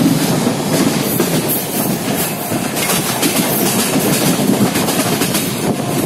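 Train running at speed, heard from aboard: a steady rumble and rush of wheels on rails, with a quick irregular clatter of clicks as the wheels pass over rail joints.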